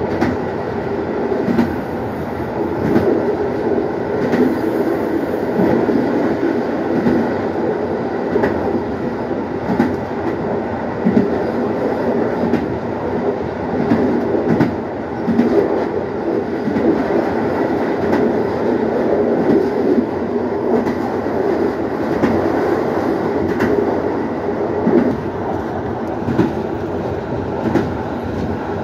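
Intercity passenger train running at speed, heard from inside its rear carriage: a steady rumble of wheels on rails, with faint clicks from the track now and then.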